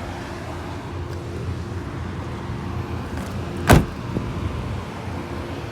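A single sharp car-door clunk about two-thirds of the way in, over a steady low rumble.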